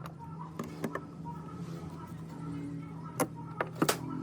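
Several sharp knocks and clicks, the loudest three near the end, over a steady low hum.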